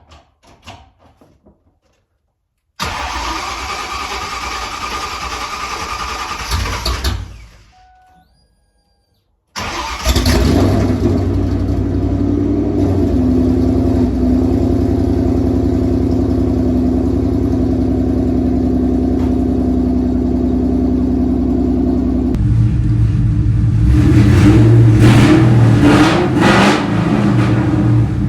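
Cold start of a Ford Mustang's 4.6-litre two-valve V8 after months of sitting: a first attempt of about four seconds dies out, then about ten seconds in the engine catches and runs steadily. Near the end it is revved a few times.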